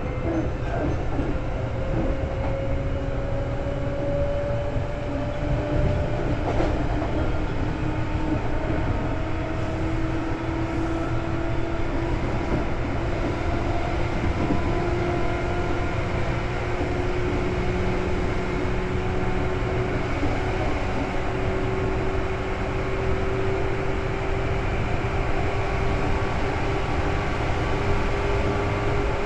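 Seibu 2000 series electric train running, heard from inside the car: a steady low running noise under a motor whine that climbs slowly in pitch as the train gathers speed.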